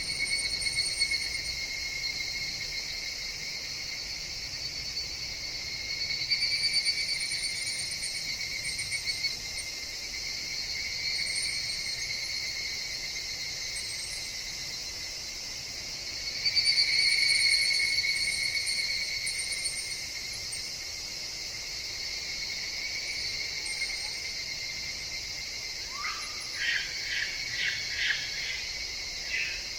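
Forest chorus of higurashi (evening cicadas), a steady high ringing that swells and fades several times. About 26 seconds in, a nearer call starts with a short rising note and runs on as quick repeated pulses.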